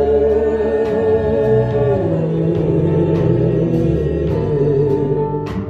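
Gospel worship song: a singer holds a long note for about two seconds, then the voice wavers on, over a steady instrumental accompaniment.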